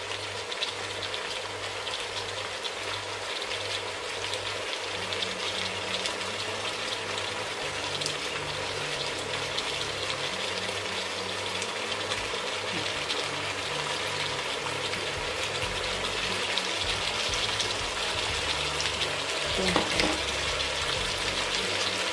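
Diced potatoes frying in hot olive oil in a pot: a steady sizzle that grows a little louder toward the end, with a couple of short knocks near the end.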